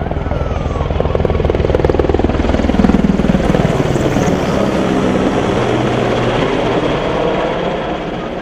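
Aircraft passing low overhead, growing louder to a peak about three seconds in, then fading with a falling pitch as it moves away.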